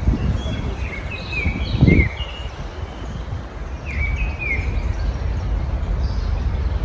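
Small songbirds giving short, quick chirps in two clusters, about a second in and again about four seconds in, over a steady low rumble that swells loudly near two seconds.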